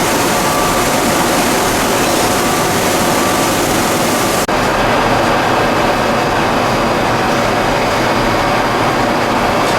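Machinery of a PE and calcium carbonate pelletizing line running: a loud, steady mechanical din with a few faint steady tones. There is a brief dropout about four and a half seconds in, after which the high hiss is duller.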